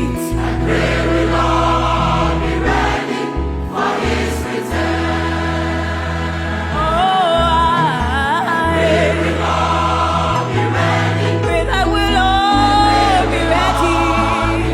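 A choir singing a gospel song with musical accompaniment and a sustained bass line.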